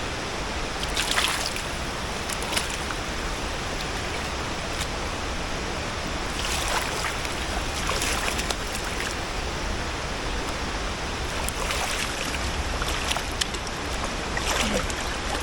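River water rushing steadily, with a few short splashes now and then.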